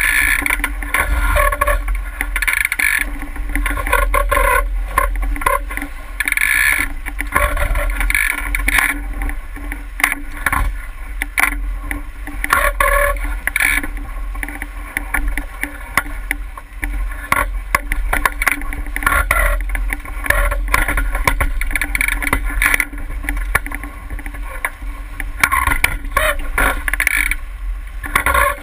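Water splashing and slapping irregularly against a boat's hull as it moves through the water, over a steady low rumble.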